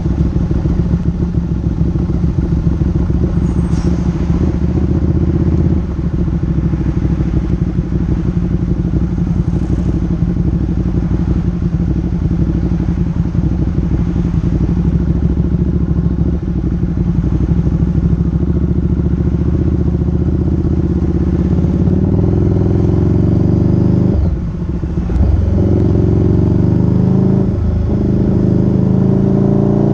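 Motorcycle engine running steadily while riding, its note dipping briefly three times, mostly near the end, then rising in pitch as it accelerates.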